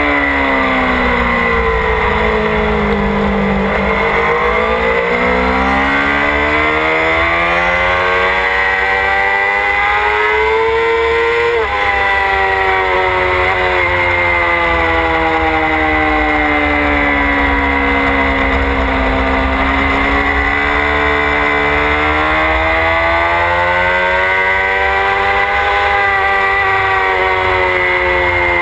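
Motorcycle engine at speed on a track, its pitch falling for the first few seconds and then climbing. About eleven or twelve seconds in there is a brief break, a gear change, after which the revs rise and fall again in long sweeps.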